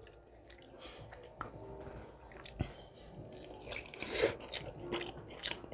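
Close-miked biting and chewing of an air-fried chicken drumstick: quiet, irregular wet mouth clicks and smacks as the meat is torn off and chewed.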